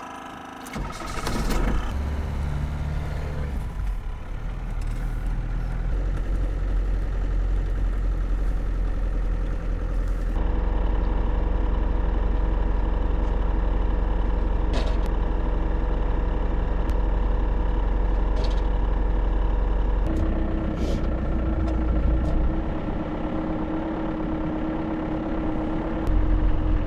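Truck engine running with a steady low rumble as the vehicle drives; the sound changes character twice.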